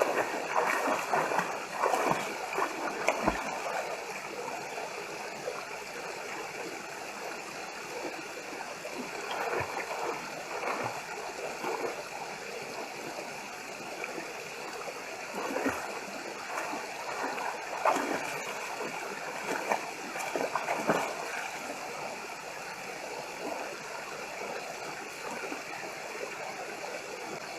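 Stream water rushing steadily, with irregular splashes as a person swims and moves about in it, strongest near the start and a few times in the second half.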